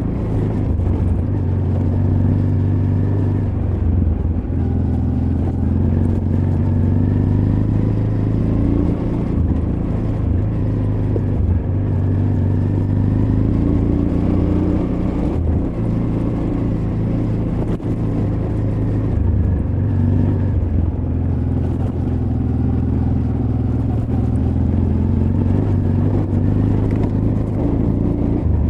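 Honda Transalp XL600V's V-twin engine running as the motorcycle is ridden off-road, its pitch rising and falling repeatedly as the throttle opens and closes.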